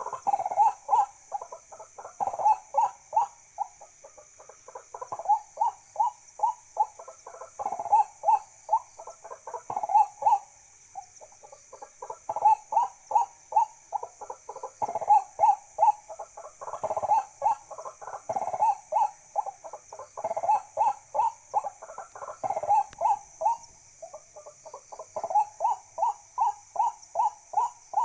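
A bird calling a long series of short hooting notes, about two a second, in runs broken by brief pauses, over a steady high-pitched insect hiss.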